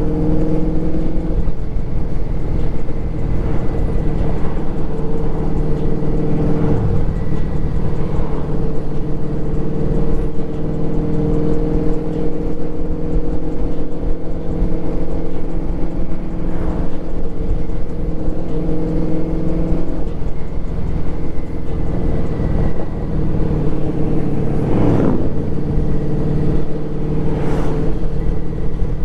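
Motorcycle engine running steadily while riding, with wind and road noise underneath; the engine pitch shifts a few times, around 7, 20 and 25 seconds in.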